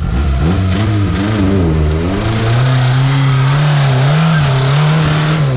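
Off-road vehicle's engine revving hard under load, the pitch climbing over the first two seconds and then held high with small wobbles, starting to drop as the throttle eases near the end.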